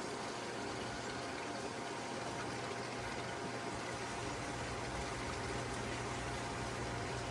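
Water rushing steadily over a constant low electric-motor hum, the sound of a pump circulating water.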